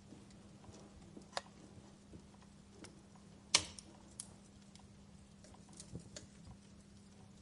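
Fireplace crackling: scattered soft ticks and pops, with the loudest sharp pop about three and a half seconds in, over a faint steady low hum.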